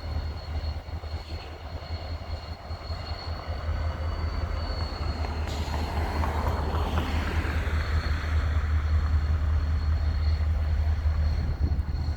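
Diesel locomotive, a GP40-2LW road switcher, running while switching cars, with a steady low rumble; the sound swells about six seconds in and stays louder afterwards.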